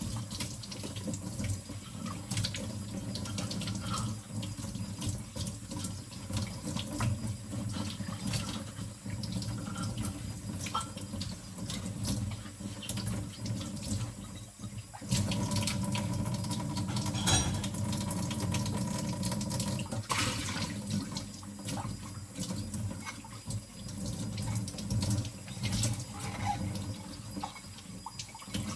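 Kitchen tap running into a sink as bowls are rinsed by hand, with short clinks of the bowls knocking together. The water gets louder about halfway through.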